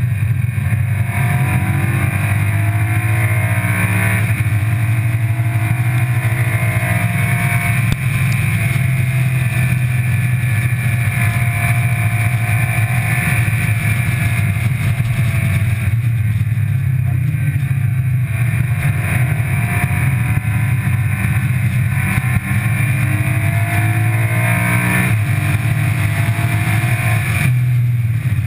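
Car engine driven hard on a race track, its pitch rising and falling back several times as it accelerates and lifts for corners, under a steady rush of wind and road noise at an exterior camera mounted low on the car.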